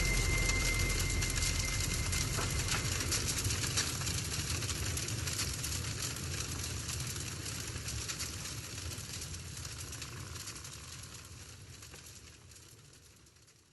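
The tail of the soundtrack: a dense, noisy wash with no clear melody, fading out steadily until it dies away to silence at the end.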